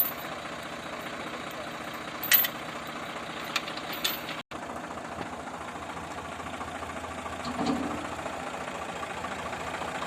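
Swaraj 855 tractor's diesel engine running steadily, with a few sharp clicks in the first half and a momentary break in the sound about halfway through.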